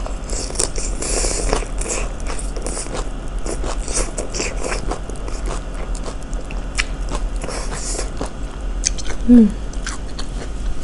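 Close-miked chewing of a big mouthful of asinan sayur: raw cabbage, vegetables and crackers in peanut sauce, with irregular wet crunches and mouth clicks.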